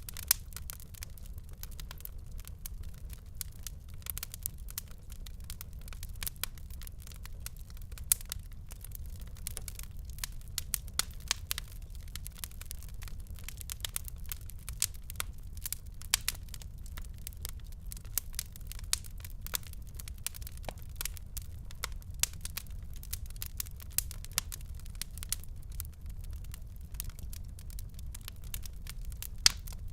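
Fire crackling in a fireplace: frequent sharp pops and snaps, a few noticeably louder, over a steady low rumble.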